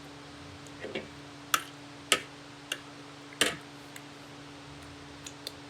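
A handful of short, sharp clicks and taps at uneven intervals, the loudest near the middle, over a steady low electrical hum.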